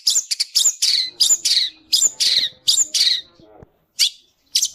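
Long-tailed shrike singing a rapid run of short, scratchy, high notes, about two a second, its song filled with mimicked yellow-vented bulbul (trucuk) calls. There is a brief pause before two more notes near the end.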